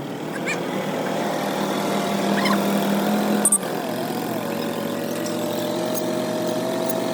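Kobelco excavator's diesel engine running steadily, with a brief drop about halfway through after which its note wavers and settles.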